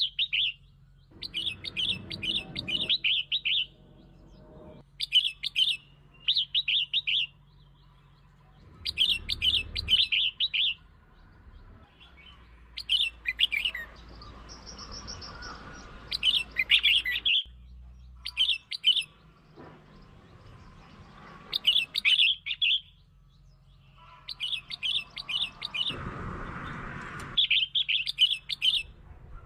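Red-whiskered bulbul song: short, bubbly warbling phrases repeated with pauses of a second or two between them.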